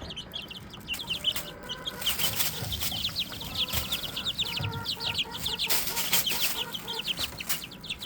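A brood of month-old chicks, Serama and pheasant-chicken chicks, peeping without pause in quick short high notes that fall in pitch, with scattered brief rustles and taps from their scrambling and fluttering.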